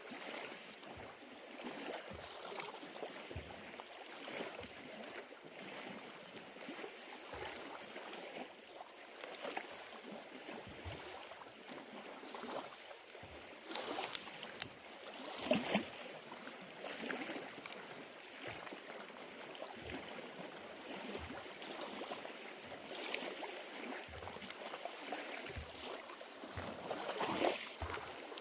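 Small lake waves lapping, with soft, irregular low slaps of water every second or two.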